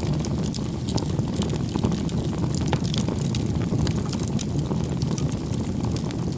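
Bonfire burning, with a steady low rumble and frequent sharp crackles and pops.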